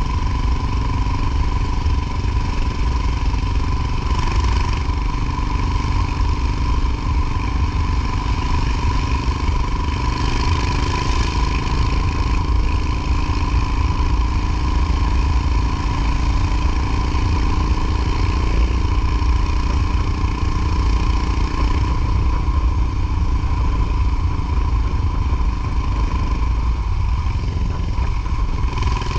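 Motorcycle engine running steadily on the move, with a heavy low rumble and small rises and falls in engine pitch.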